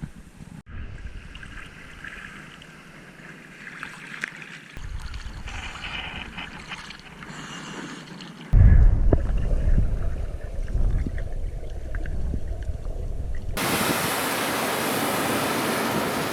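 Sea surf washing and wind buffeting the microphone, over several short clips that cut in abruptly; the surf becomes a steady, even wash near the end.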